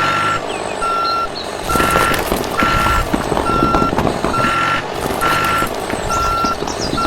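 Truck reversing alarm beeping steadily, one single-pitched beep a little under once a second, over a running motor and clattering rumble.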